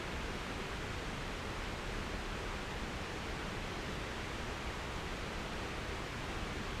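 Steady, even rushing noise with no distinct events, no tones and no voices.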